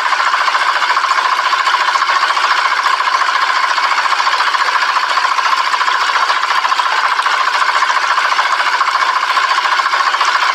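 Small motor of a miniature diesel-engine water pump model running with a fast, even rattle.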